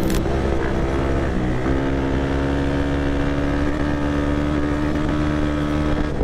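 Motorcycle engine running at steady high revs under way, its pitch holding nearly constant with a small step up about a second and a half in, along with wind noise.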